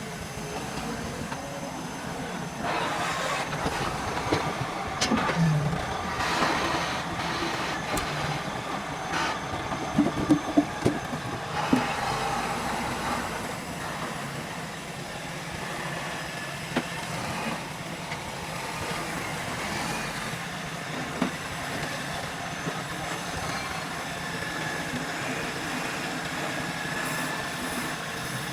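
Sawmill machinery running while durian logs are worked, a steady mechanical rumble with scattered knocks and clatter, the heaviest cluster about ten to twelve seconds in.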